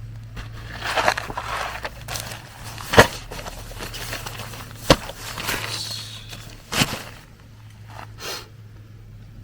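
Rustling and handling noises, perhaps footsteps, with three sharp knocks a couple of seconds apart, over a steady low hum.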